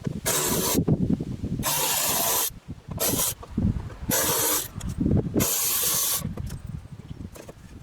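Five short bursts of hissing spray, each under a second long, with knocks and handling noises between them.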